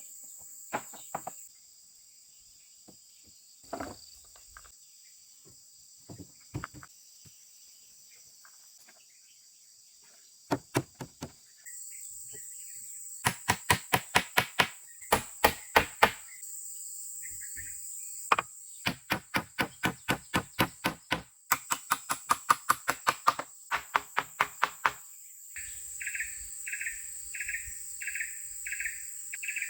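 Runs of sharp, rapid blows, about four a second, like a blade or tool striking wood, from the middle of the stretch until near the end, over a steady high drone of insects. Near the end, a call pulses about twice a second.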